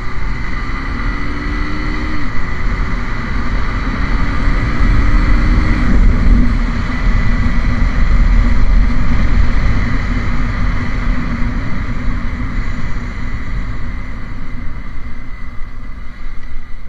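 A 150 cc Honda single-cylinder motorcycle engine revving up twice in quick succession, its pitch rising each time, then running hard under a heavy low rumble. The rider is accelerating for another wheelie attempt.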